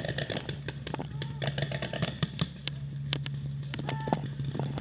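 Scattered sharp pops of paintball fire over a steady low hum, with faint distant shouts.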